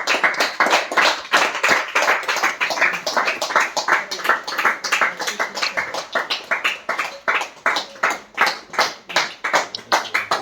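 Hands clapping in a steady, even rhythm, about four claps a second.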